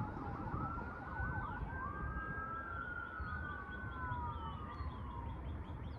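Emergency vehicle siren sounding a fast warbling yelp that changes about a second and a half in to a slow rising and falling wail, fading out near the end. A steady low rumble runs underneath.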